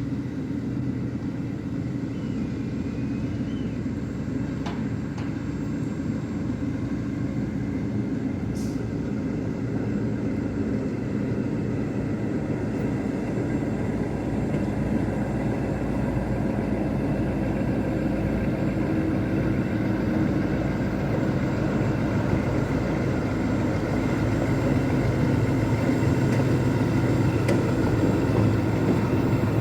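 Diesel engine of a BR Class 03 shunter running at a steady note, growing gradually louder throughout.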